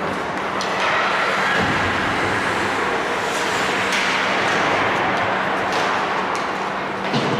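Ice hockey play: skate blades scraping and carving the ice in a steady hiss, with a few sharp clacks of sticks or puck and a steady low hum under it.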